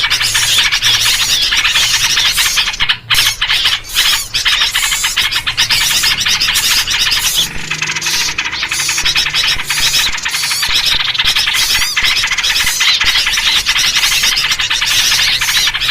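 Loud, continuous chatter of many small birds calling at once in agitation, a bird-lure recording built on the calls of yellow-vented bulbuls (trucuk).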